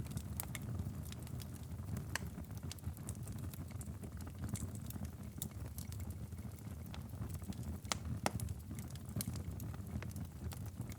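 Wood fire in a fireplace crackling, with frequent small irregular pops and snaps over a steady low rumble, a couple of sharper pops about eight seconds in.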